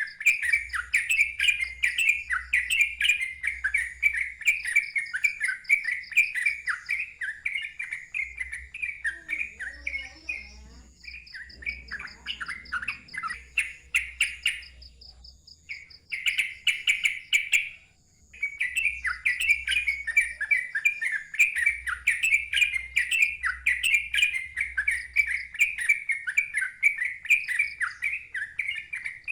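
Yellow-vented bulbul (trucukan) singing a fast, unbroken run of chirping notes, the rolling 'ngeropel' song. The song thins out about ten seconds in and stops briefly at around eighteen seconds before resuming.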